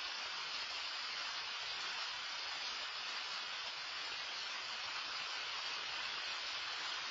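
Rain falling steadily, an even, unbroken hiss with no separate drops or gusts standing out.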